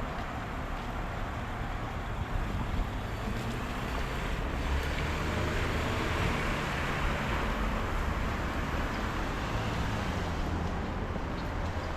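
City street noise: a vehicle passing, swelling and fading through the middle, over a low wind rumble on the microphone.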